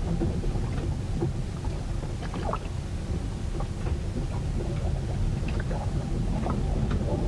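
Storm sounds recorded aboard a ship: a steady low rumble of wind and water, broken by scattered short creaks and knocks.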